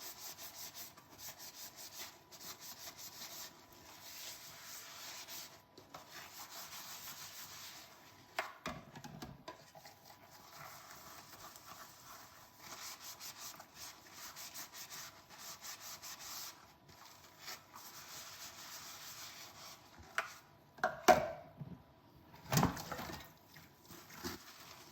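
Sponge scrubbing a dish by hand in rhythmic back-and-forth strokes, in two long runs. Near the end come a couple of sharp knocks of crockery being handled or set down.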